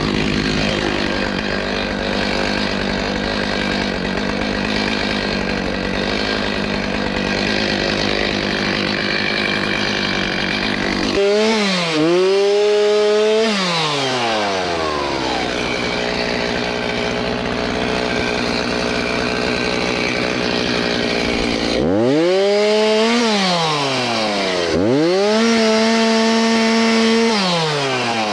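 Chainsaw cutting small trees, running steadily, then revved up three times, once near the middle and twice close together near the end, each time rising in pitch, holding briefly and dropping back.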